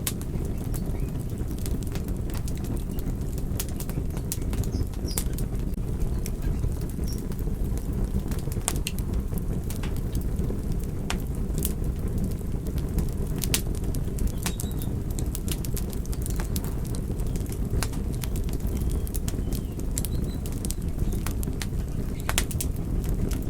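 Wood fire crackling, with irregular sharp pops and snaps over a steady low rumble of burning flames.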